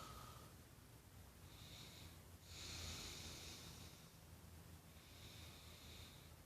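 Faint, slow breathing of a person: three soft breaths through the nose, the longest and loudest about halfway, over a low steady room hum.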